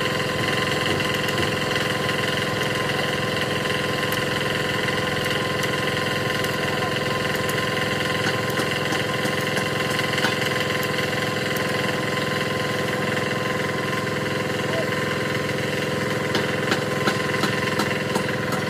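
An engine idling steadily with an even, unchanging note. A few sharp clicks come near the end.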